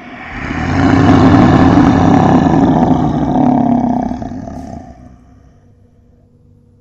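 A lion roaring: one long, loud roar that swells up, holds for about three seconds and fades away.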